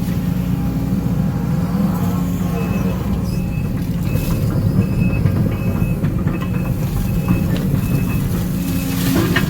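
Case CX210D excavator's diesel engine running under hydraulic load. A high beep repeats about every two-thirds of a second from about two and a half seconds in until near the end.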